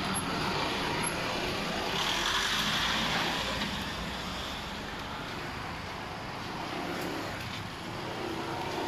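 Street traffic: motor vehicles running past, a steady wash of engine and tyre noise that is a little louder in the first few seconds and eases toward the end.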